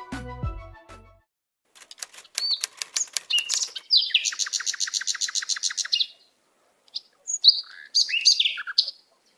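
Background music fading out in the first second, then birds chirping: scattered short high calls and clicks, a fast trill of rapidly repeated notes lasting about two seconds in the middle, and a few more separate chirps near the end.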